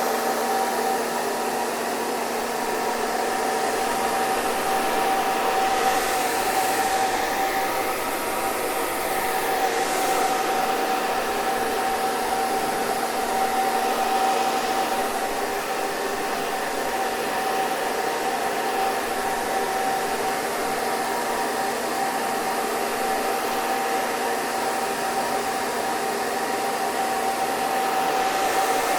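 Hair dryer running steadily: a continuous airy rush with a steady motor whine.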